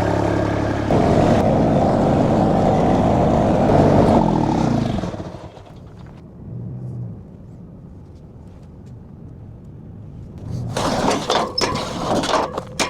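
A machine's engine running hard, then dropping to a low idle about five seconds in. Near the end it picks up again, with a few sharp knocks and clanks.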